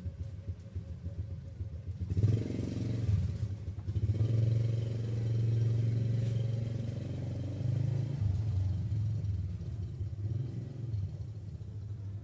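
Cat purring, a low steady rumble that swells about two seconds in and runs on with brief breaks.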